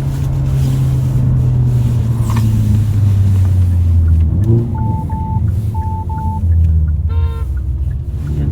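Hyundai Avante N's (Elantra N) 2.0-litre turbo four-cylinder engine and exhaust heard inside the cabin, a steady low drone whose pitch sinks slowly as the revs drop, with a short rise about four and a half seconds in. Four short electronic beeps, in two pairs, sound in the middle.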